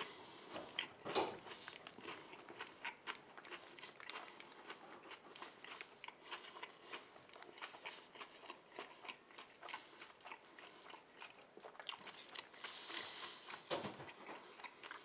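A man biting into and chewing a döner kebab in flatbread, heard close up: a run of small wet clicks and crunches, with a louder crunch about a second in.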